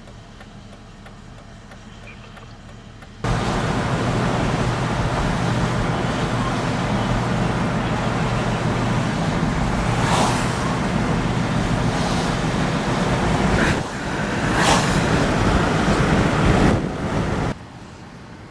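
Loud, steady rushing noise of a severe thunderstorm's wind and rain, starting and stopping abruptly, with two brief sharper bursts about ten and fifteen seconds in.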